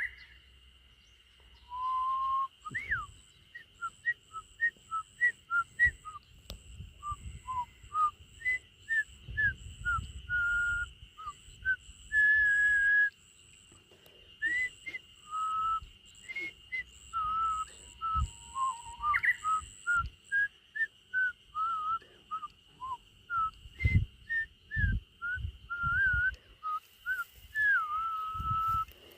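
A person whistling a J-pop melody in quick short notes, some sliding up or down. A faint steady high tone runs underneath, and a few low thumps come in the second half.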